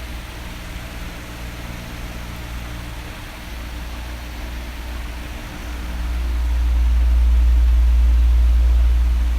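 Electric fan running steadily: a rush of moving air over a low motor hum. About six seconds in, a low rumble of air buffeting the microphone swells loud for a few seconds, then eases near the end, as an oscillating fan's head sweeps toward the microphone and away.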